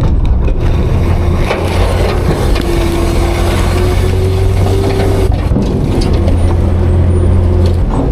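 Autocar-Heil Freedom front-load garbage truck running steadily under load while its packer compacts garbage: a loud, steady diesel drone with a steady hydraulic whine over it for a few seconds in the middle.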